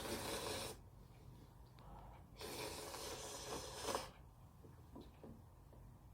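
Two long slurps of instant cup ramen noodles, the second with a few small clicks of eating mixed in.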